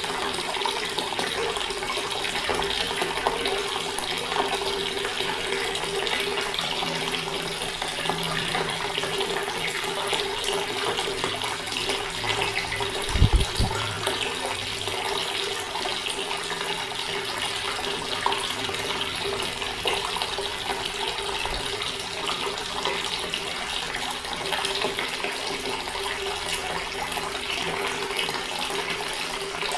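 Water running steadily from a tap, with a faint steady hum underneath. A short low thump sounds about halfway through.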